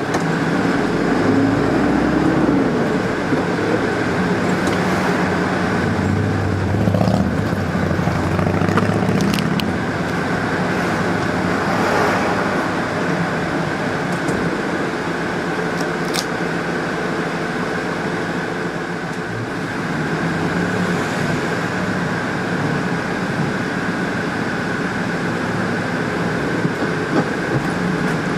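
Steady road traffic noise, with vehicle engines humming as they pass.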